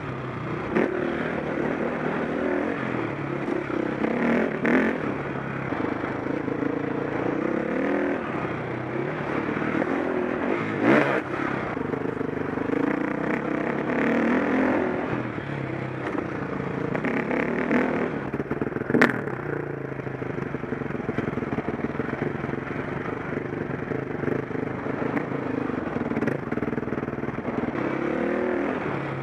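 KTM 525 SX four-stroke single-cylinder dirt bike engine revving up and down as it is ridden round a motocross track, with clattering from the bike. A sharp knock comes about two-thirds of the way through, the loudest moment.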